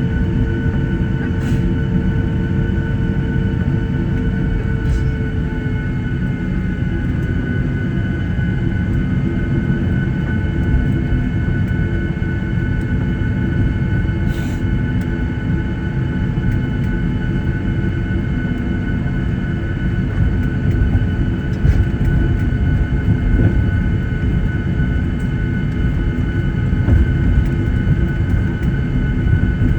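Boeing 737-800 cabin noise while the airliner taxis after landing: a steady low rumble from the wheels and airframe, with the idling CFM56 engines' whine in several steady tones. There are a few light knocks, and a lower tone fades out a few seconds in.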